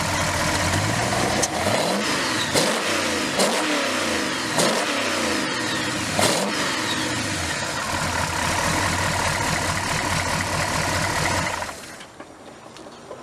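Engine of a 1967 Ford Mustang (Shelby GT500 clone) being revved through its RPM range. It is blipped up and back down about five times in quick succession, then settles back to a steady idle. The sound drops away sharply near the end.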